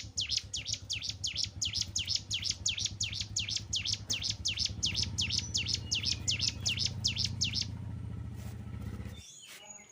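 A cigun (ciblek gunung) calling a rapid, even series of short high chirps, about five a second, which stop near eight seconds in. A low steady hum runs underneath and cuts off suddenly about nine seconds in, and a single different chirp follows near the end.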